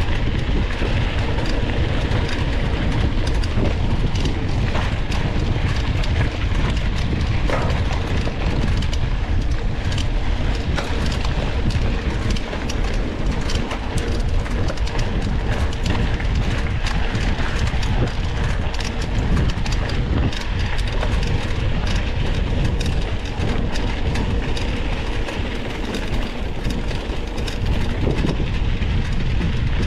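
Mountain bike riding over a rough dirt trail, heard from an onboard action camera. Wind rumbles on the microphone, and the bike rattles and knocks continually as it jolts over the ground.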